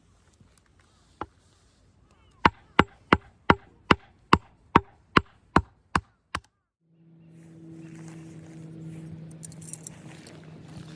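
Firewood being chopped: one knock, then a run of about a dozen sharp, evenly paced strikes, about two and a half a second, that stop suddenly. After a short silence a steady low hum with background noise begins.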